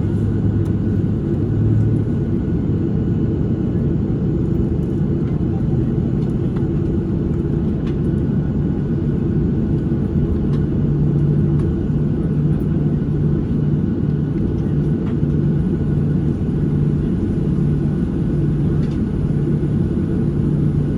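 Steady low cabin drone of a Boeing 737-700 with its CFM56-7B engines running, heard from inside the passenger cabin. From about halfway a low hum pulses on and off roughly once a second over the drone.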